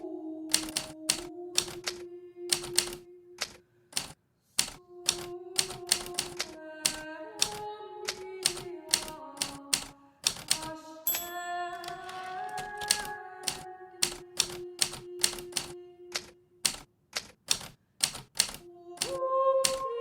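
Hermes Baby portable typewriter keys striking in an uneven run of typing, about two to three strokes a second with a short pause about four seconds in, over a slow background melody of held notes.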